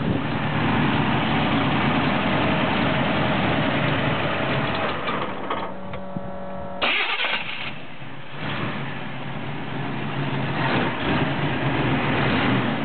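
1990 Pontiac Trans Am's V8 engine running on its first start-up, idling unevenly. About five seconds in it drops to a thinner, quieter note, then comes back with a sudden loud burst about seven seconds in.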